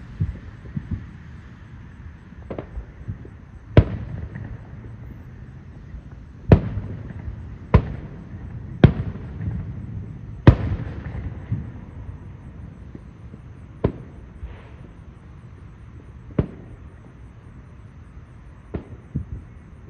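Aerial fireworks shells bursting: a string of sharp booms, about eight loud ones at irregular intervals a second or several apart, over a steady low rumble.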